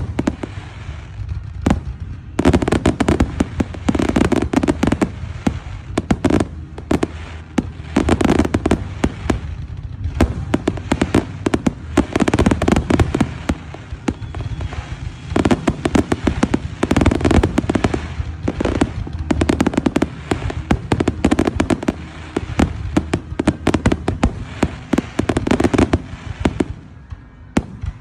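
Fireworks going off in rapid volleys of sharp bangs and crackles, with a few short lulls between the dense clusters.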